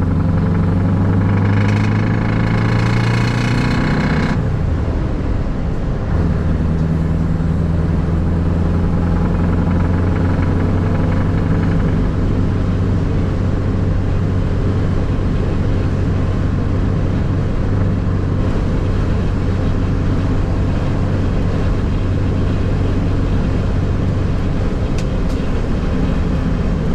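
Truck engine running steadily under way, a low continuous drone. Its pitch rises over the first few seconds, when a brighter, higher-pitched sound joins in for about two and a half seconds.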